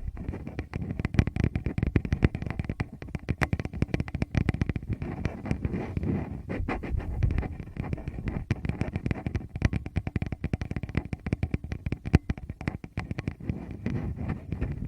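Fingers rubbing, scratching and tapping directly on a Tascam recorder's microphones: a dense, irregular crackle of handling noise with low, muffled thumps.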